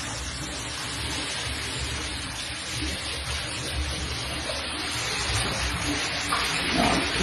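Heavy storm downpour: a steady, even hiss of precipitation falling.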